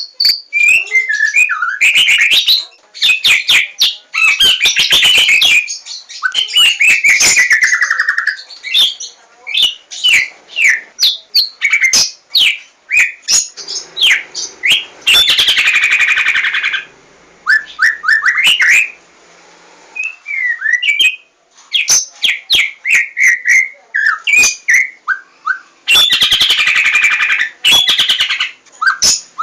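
Javan white-rumped shama (murai batu, 'larwo') singing a fast, varied song of whistles, rising and falling glides and clicks, broken three times by longer harsh, rattling phrases, with a short pause about two-thirds of the way through.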